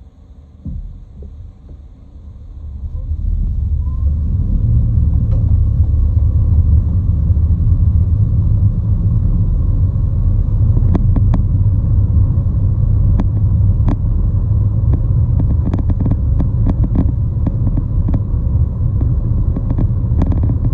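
Loud, steady low rumble of a moving vehicle. It builds up over the first few seconds, and scattered sharp clicks and ticks come in over it from about halfway through.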